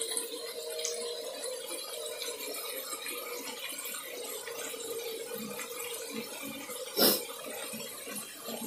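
Rabbit meat sizzling as it stir-fries in a wok, with a faint steady hum underneath. There is one sharp clack about seven seconds in.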